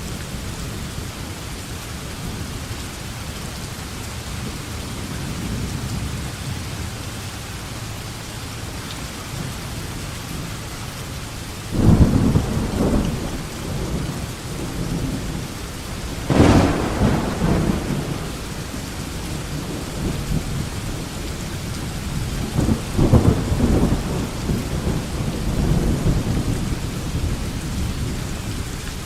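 Thunderstorm: steady rain falling under a low rolling rumble of thunder, with three louder claps of thunder, the sharpest a little past the middle.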